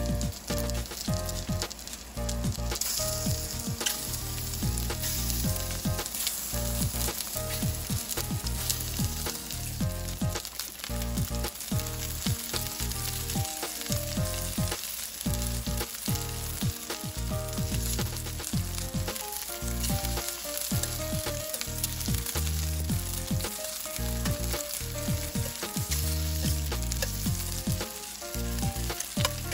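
Batter-coated shrimp frying in hot oil, a steady crackling sizzle.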